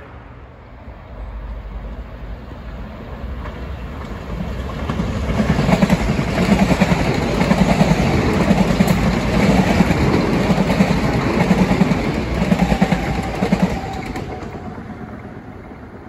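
Electric multiple-unit commuter train passing at speed, its wheels clacking rhythmically over the rail joints, about two clacks a second. It builds up about five seconds in and is loudest in the middle, then fades away near the end.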